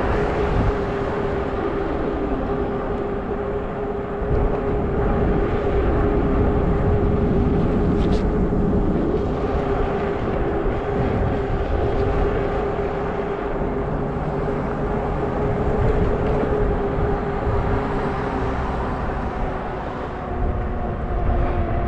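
Fat-tire folding e-bike riding at a steady speed on pavement: a steady hum from the drive and tyres that barely changes pitch, over wind rumbling on the microphone.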